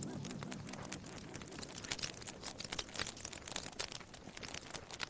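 Faint irregular crackling: scattered sharp clicks, denser and louder from about two seconds in.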